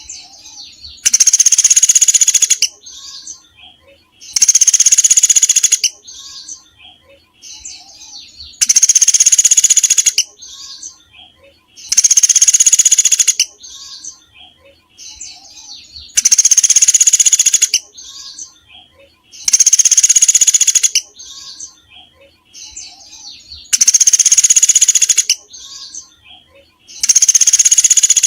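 A small songbird's song from a bird-song training recording: a loud, high, rapid trill about a second and a half long, repeated every three to four seconds, with softer scattered chirps between the trills.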